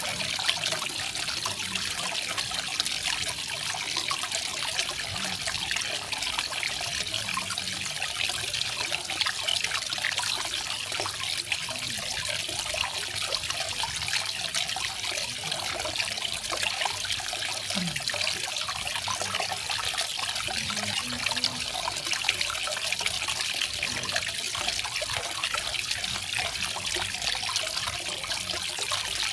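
Garden waterfall: water falling and splashing in a steady, unbroken stream.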